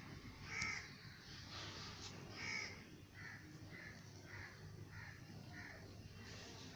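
A bird calling repeatedly in short harsh calls: two louder calls about two seconds apart, then a quicker run of about six softer calls.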